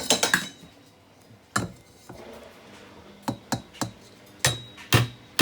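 A run of sharp knocks and clinks, about eight in all and spaced unevenly: hard dishwasher parts being handled and set down.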